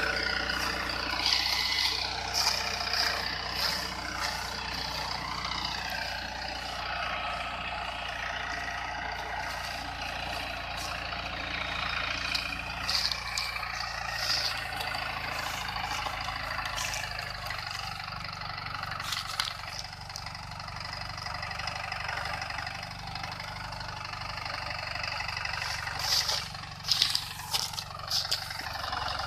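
Tractor engine running steadily, with several sharp knocks and rattles, most of them clustered near the end.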